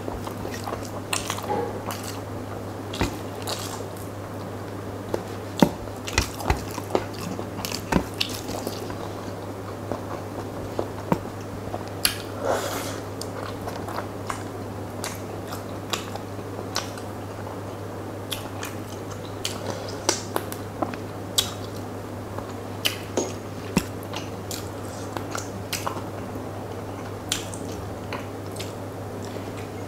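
A person eating rice and curry by hand, close to the microphone: wet chewing with irregular sharp mouth clicks and smacks.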